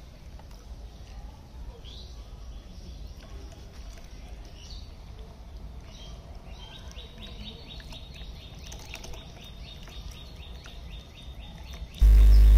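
Outdoor background with birds chirping; from about halfway in, a fast, even run of repeated high chirps. Loud background music starts abruptly near the end.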